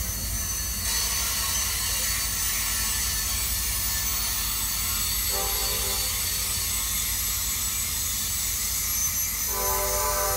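Capitol Corridor passenger train running, with a steady rush of wheel and track noise over a low rumble. Its horn sounds a short blast about five seconds in and starts again near the end.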